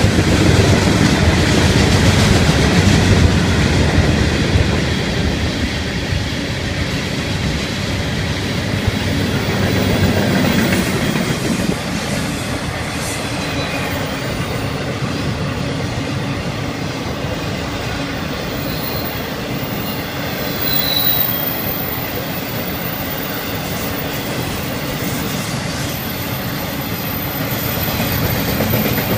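Freight cars of a Florida East Coast Railway train rolling past close by: a steady rumble of steel wheels on rail with clickety-clack, and a thin high wheel squeal joining from about halfway.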